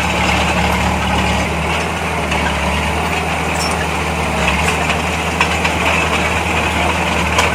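Heavy diesel earthmoving machine engine running steadily at a low, even pitch, with a few faint clicks and knocks over it.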